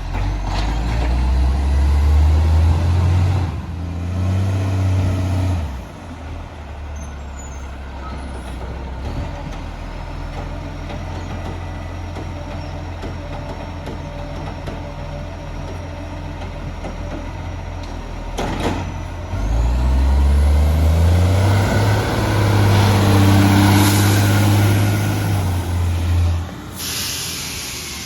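Recycling truck's diesel engine revving up and dropping back to idle, twice: briefly near the start, then for several seconds later on. In between it idles, and a short sharp air release comes just before the second rev.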